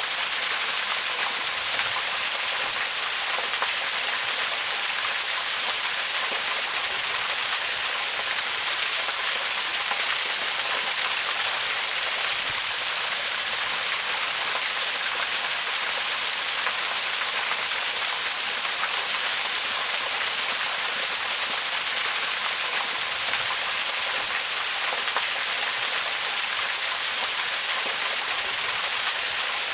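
Waterfall pouring steadily: an even, unbroken hiss of falling water, strongest in the high range.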